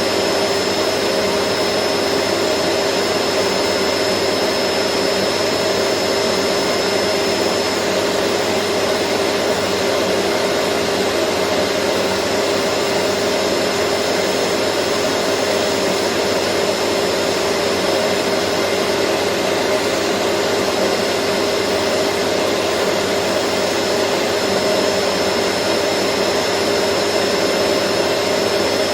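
Vacuum cleaner running steadily: an even rushing of air with a constant motor hum and a thin high whine over it.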